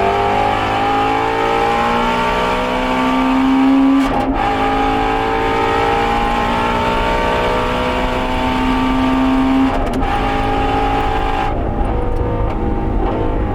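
Shelby GT350R's 5.2-litre flat-plane-crank V8 at full throttle on track, revs climbing through the gears with quick upshifts about four and ten seconds in. The driver lifts off about eleven seconds in, and the engine note falls away.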